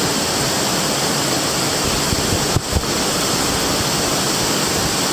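Rushing water of a mountain stream pouring through a rocky gorge: a steady, loud, even roar, broken about halfway through by a brief low thump.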